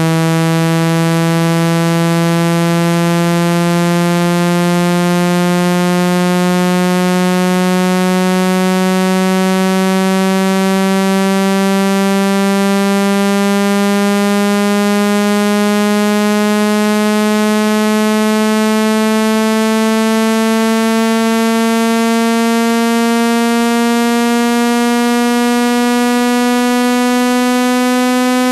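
Synthesized buzzy tone, rich in overtones, gliding slowly and steadily upward in pitch. It is a frequency-sweep water-eject sound, meant to vibrate water out of a phone speaker.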